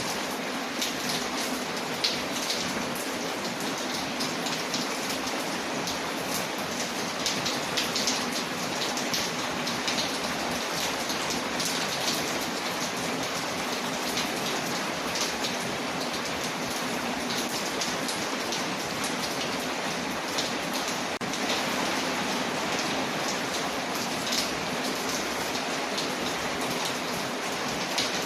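Layered ambience of steady rain on a window and a crackling fireplace: an even hiss of rain with frequent small sharp crackles scattered through it.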